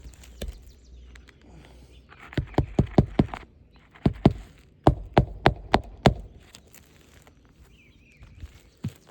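Quick runs of hammer blows on a shingle roof, about three strikes a second: hand-nailing roofing nails into a replacement shingle. There are three runs, the first starting a little over two seconds in and the last ending around six seconds.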